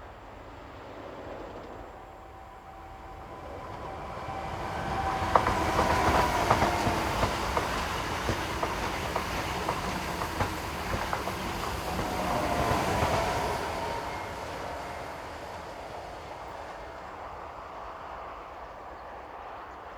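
Intercity passenger train passing at speed. The sound builds, peaks for several seconds with wheels clicking over rail joints, then fades away.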